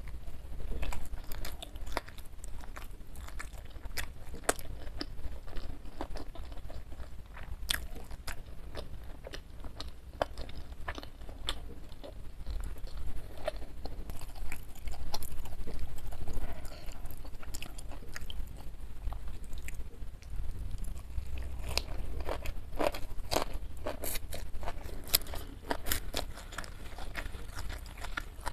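Close-miked chewing and crunching: moist chewing with crisp, irregular crunches from a meal of crispy fried chicken, rice and fern shoots eaten by hand.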